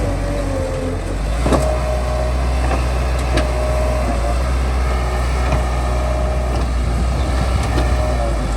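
Bulldozer's diesel engine running steadily with a deep low rumble and a thin high whine, with a few sharp metallic clanks about a second and a half and three and a half seconds in.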